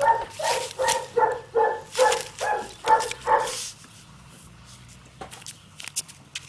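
A dog barking in a quick, even series, about ten barks at roughly two and a half a second, stopping about three and a half seconds in.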